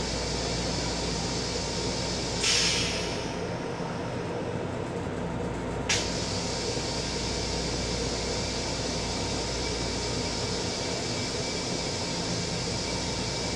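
Steady hum of an M7 railcar, heard from inside the car. A short loud hiss comes about two and a half seconds in, and a sharp click about six seconds in.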